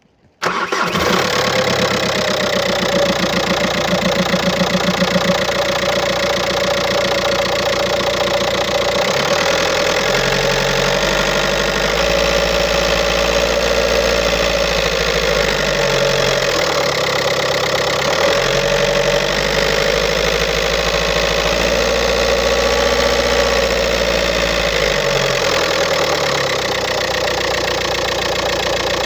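2007 VW Golf's 1.9-litre four-cylinder TDI diesel engine (code BLS) starting about half a second in, then idling with a clattering rattle. The rattle comes from a defective dual-mass flywheel.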